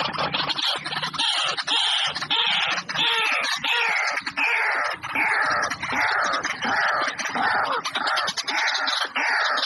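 A bird calling loudly over and over: harsh, raspy calls that each fall in pitch, about three every two seconds.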